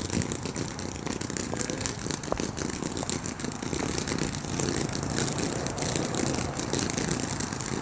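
Ground firework burning after lighting, giving off a continuous rushing, crackling spray.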